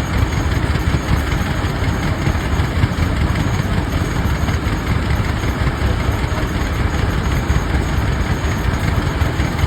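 Rumely Oil Pull tractors' two-cylinder engines running steadily, heavy and low-pitched.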